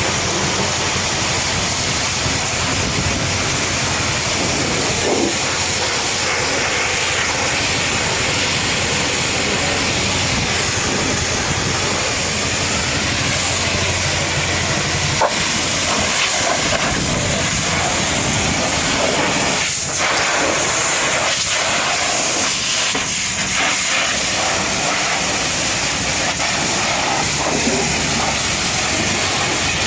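Pressure washer spraying water at high pressure in a steady hiss, with a couple of brief knocks midway.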